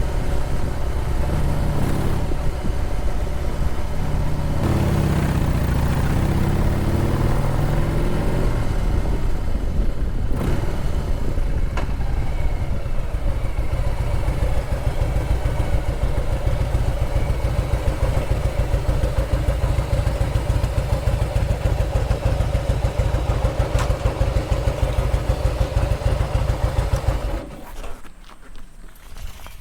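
Harley-Davidson Heritage Softail Classic's V-twin engine running, its speed changing a few seconds in and then holding steady. The engine sound cuts off sharply near the end.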